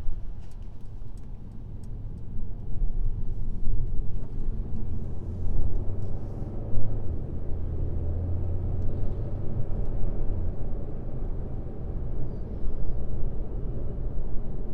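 Car driving on a highway: a steady low rumble of road and tyre noise. A louder low drone swells in from about a third of the way in and fades a few seconds later.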